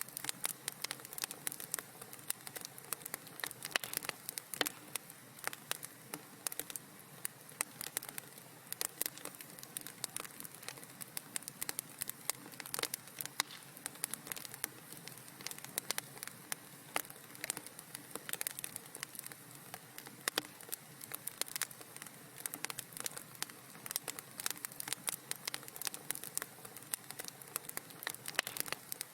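Wood fire in a fireplace crackling steadily, a dense run of small pops and snaps over a soft hiss.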